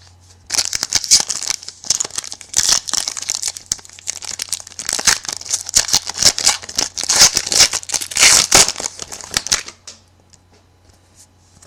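Plastic trading-card pack wrapper crinkling and tearing in a dense run of rapid crackles as it is handled and opened, stopping near the end.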